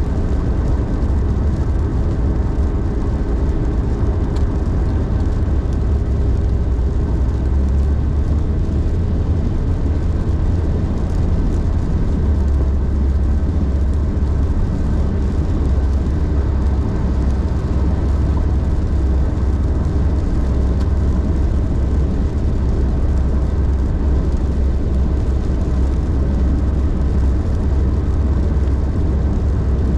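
Car driving at highway speed: a steady, loud low rumble of engine and road noise.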